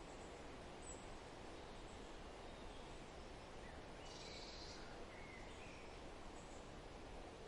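Faint, steady outdoor background hiss with a few short, faint bird calls, the clearest about four seconds in.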